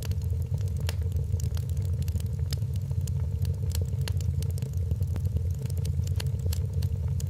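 Wood fire in a fireplace crackling, with frequent irregular sharp pops over a steady low rumble of the burning fire.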